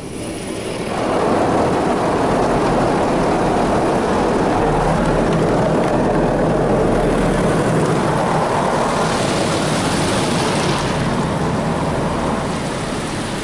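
Automatic car wash spot-free rinse spraying water over the car, heard from inside the cabin as a steady rushing hiss on the body and glass. It builds up about a second in and eases off near the end.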